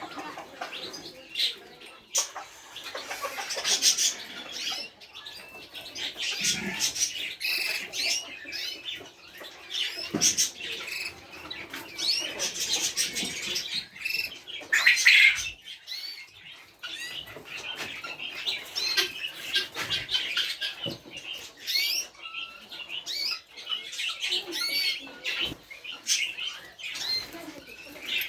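Penned birds: repeated wing flapping and scratchy rustling mixed with many short high chirps, with no pause in the activity.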